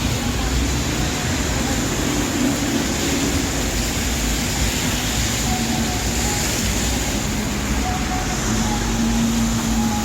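Busy city street ambience in the rain: a steady hiss of traffic on wet roads and rain, with a few faint held tones in the background.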